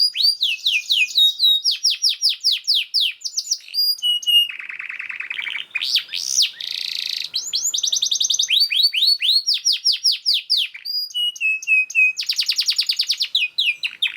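Domestic canary singing a fast, dense song. Runs of rapid down-slurred trill notes alternate with buzzier rolls, with hardly a pause.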